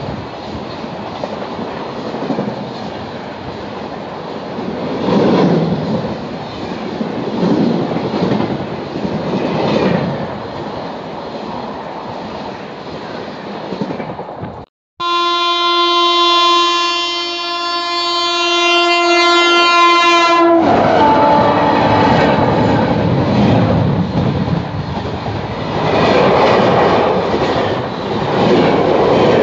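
Express train coaches passing at speed, a steady rushing with rhythmic wheel clatter over the rail joints. After a sudden cut, a locomotive horn sounds one long steady blast of about five seconds, followed by another express train passing at speed, louder.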